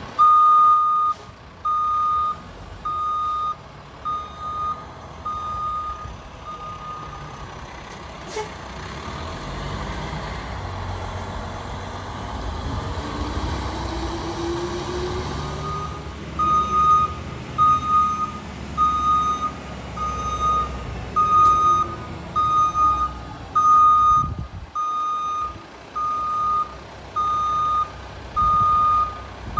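Garbage truck's backup alarm beeping steadily, about once a second, as the International HV rear loader reverses. The beeping stops for several seconds while the truck's engine runs louder, with a sharp click partway through, then resumes.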